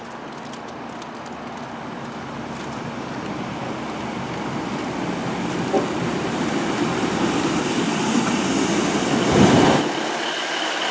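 Class 150 Sprinter diesel multiple unit pulling into the station, growing steadily louder as it comes in. Near the end there is a louder swell, and a steady high tone joins it.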